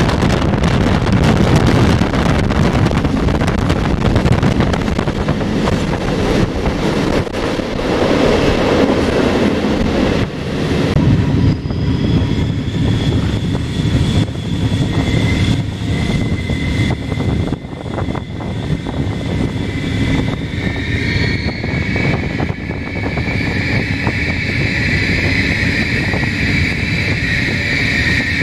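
Passenger train running at speed, heard from a carriage window as it runs into a tunnel: rumble of wheels on the track and wind rushing past. Inside the tunnel a steady high whine of several tones sets in and grows stronger near the end.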